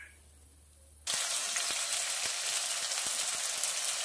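Shrimp paste (bagoong) sizzling as it fries in oil in a wok. It starts abruptly about a second in, after near silence.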